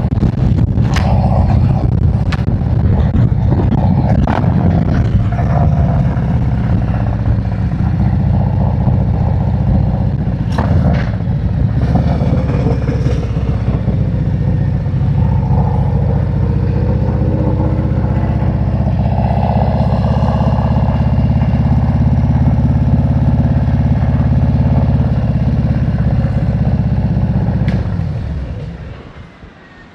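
Harley-Davidson motorcycle's V-twin engine running under the rider, with a few sharp clicks along the way, until the engine is shut off and the sound drops away near the end.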